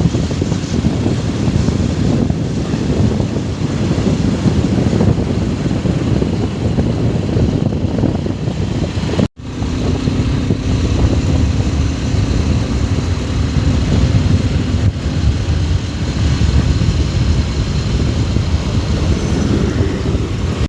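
Motorcycle running on the road with heavy wind rush on the microphone. The sound cuts out for an instant about nine seconds in, then carries on, with a faint steady engine hum audible afterwards.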